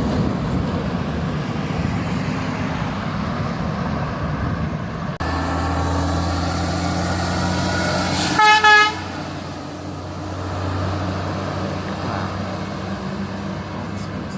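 Steady traffic noise, then a truck's engine running close by, and about halfway through two quick, loud blasts of its air horn.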